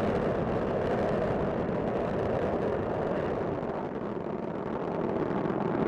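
Steady rumble of Space Shuttle Discovery's solid rocket boosters and main engines during ascent, a dense, even roar that sags slightly in the middle.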